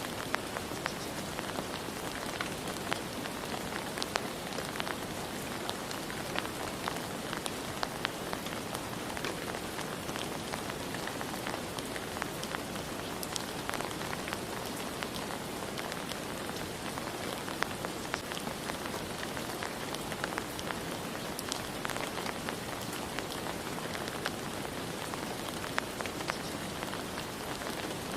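Steady rain falling on a surface, with scattered individual drops ticking sharply through the constant patter.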